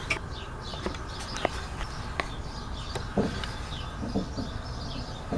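Short bird chirps, each a quick falling note, repeating in the background, with several sharp clicks and a couple of dull thuds over a low steady hum.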